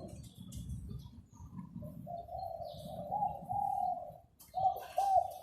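A newly acquired caged zebra dove cooing in a rolling trill: one long coo starting about two seconds in, then another beginning near the end. It is a new bird just starting to coo, with a mid-pitched, round voice, over a low background rumble.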